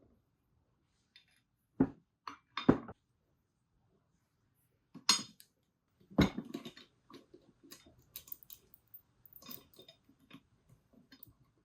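Metal hand tools knocking and clinking while swingarm bearing seals are fitted: a few separate sharp knocks in the first half, then a run of smaller clicks and rattles.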